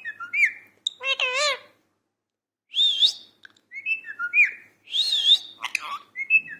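Pet parrot whistling and chirping in short bursts: high whistles that wobble up and down in pitch, mixed with quick falling chirps, with brief pauses between phrases.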